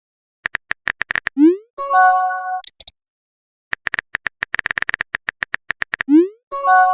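Text-message app sound effects: a quick run of keyboard tap clicks, then a rising swoop and a short chime as a message pops up. The cycle plays twice.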